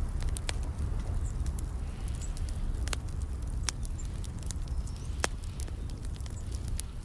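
Wood fire crackling in a fireplace: a steady low rumble of the burning fire with many irregular sharp pops, two of them louder about three and five seconds in. A few faint, short high bird chirps sound over it.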